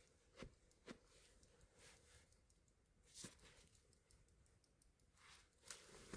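Near silence with a few faint, scattered clicks and a soft rustle.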